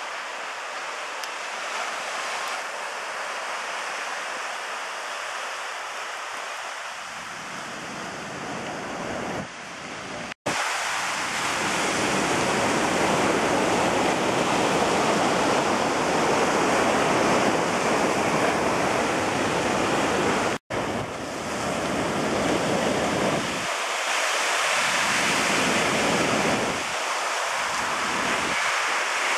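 Steady rush of ocean surf mixed with wind on the microphone. It grows louder about a third of the way in and drops out to silence twice for a split second.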